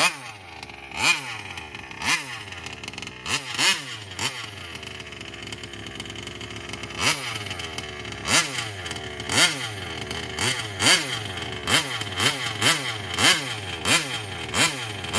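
Taylor 35cc reed-valve two-stroke engine in a large-scale RC car idling as it warms up, blipped on the throttle again and again in short revs that climb and drop back to idle, more often in the second half.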